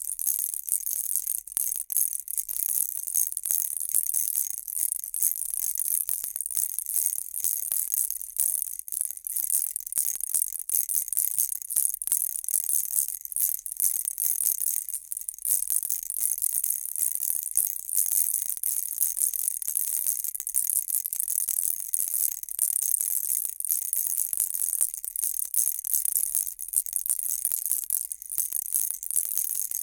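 Baby rattle shaken without pause, making a dense, fast, high-pitched rattling jingle.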